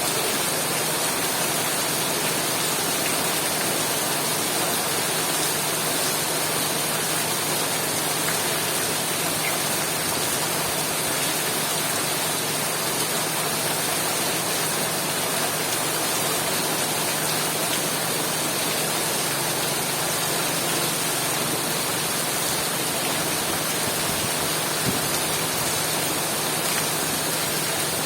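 Heavy rain falling steadily, an even hiss of water with no let-up.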